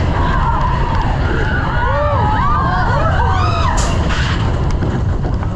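Mine-train roller coaster running: a heavy steady rumble of wind and train, overlaid with many high, wavering squeals that rise and fall, and a sharp clatter about two-thirds of the way through.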